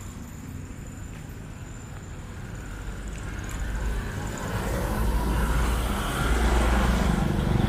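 Street traffic: a motor vehicle's engine rumbling close by, building up from about halfway through and loudest near the end.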